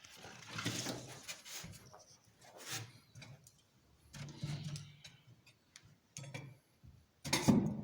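Irregular clicks, light knocks and rustling of things being handled, with a louder knock near the end.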